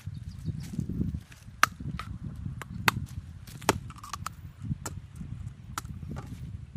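Five sharp cracks or snaps, roughly a second apart, over a steady low rumble.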